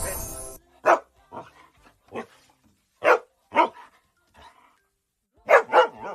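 Dog barking: short, sharp barks spaced through a few seconds, some in quick pairs.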